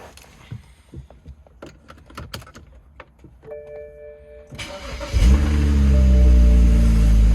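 Clicks and a brief steady tone, then the stock 2008 BMW 135i's twin-turbo inline-six is cold started: it cranks briefly and catches about five seconds in, flaring loud and dropping in pitch as it settles toward a steady idle.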